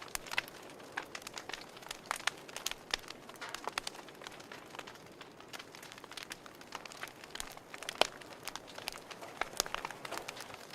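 Wood fire crackling, with irregular sharp pops and snaps over a low hiss; the loudest pop comes about eight seconds in.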